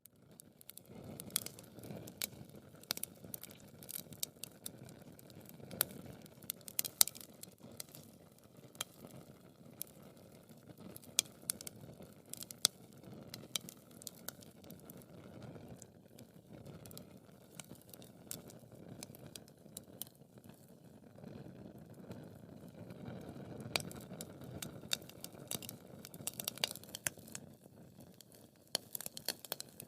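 Wood fire burning in a fireplace: a low steady rush of flames with frequent irregular crackles and sharp pops of burning wood, a few of them louder.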